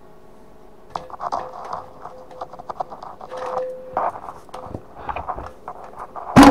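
Metal gas mask canister being handled: a run of light clicks and knocks, some leaving a short metallic ring, then a loud clank near the end.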